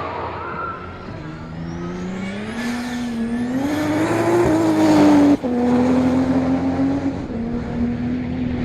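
Ford Barra 4.0-litre turbocharged straight-six under acceleration, its note rising for about four seconds with a high whistle climbing above it. About five seconds in the sound cuts out for an instant, then the engine holds a steadier, lower note.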